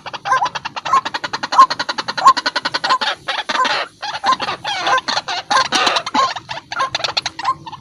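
White-breasted waterhen calling: a fast, stuttering run of repeated notes, several a second, that thickens into a dense, loudest stretch in the middle before thinning out again.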